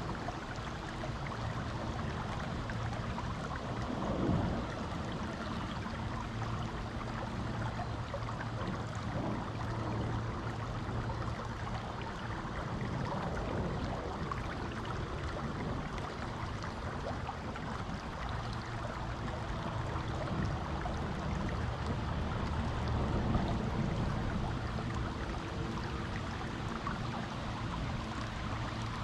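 Creek water flowing steadily over rocks, a continuous rushing wash with a brief louder surge about four seconds in.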